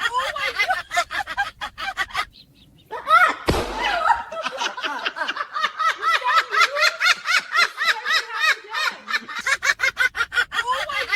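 A voice laughing hard and fast in high-pitched ha-ha bursts, about four or five a second, breaking off briefly about two seconds in. A short thump comes about three and a half seconds in.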